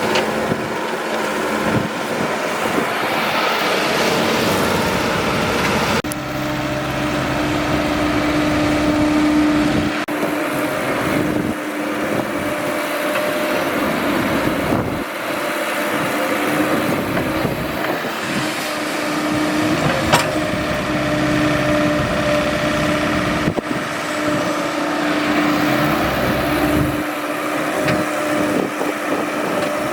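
Excavator engine running steadily, with a steady whine that comes and goes in long stretches.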